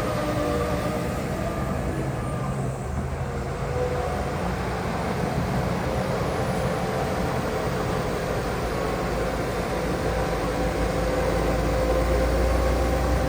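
Diesel engines of heavy earthmoving machinery (dump trucks and a bulldozer) running steadily. The low rumble grows somewhat louder near the end.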